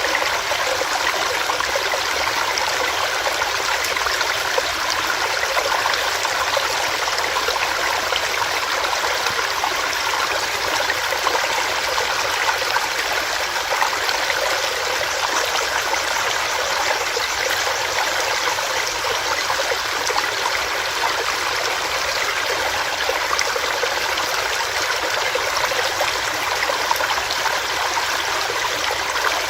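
Small stream running over rocks, a steady, even rush of water without pauses.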